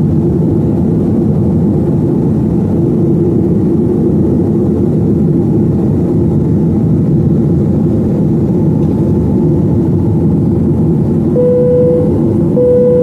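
Steady drone of a Boeing 737-900ER's engines and airflow inside the passenger cabin, with a steady hum running through it. Two short tones at the same pitch sound one after the other near the end.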